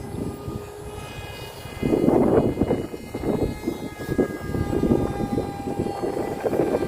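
Homemade model airplane's propeller motor whining overhead with a steady, slightly shifting pitch, under gusts of wind buffeting the microphone from about two seconds in.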